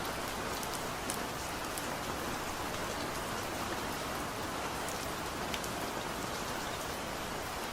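Heavy rain falling steadily, a dense even hiss with the sharp ticks of single drops striking a surface scattered through it.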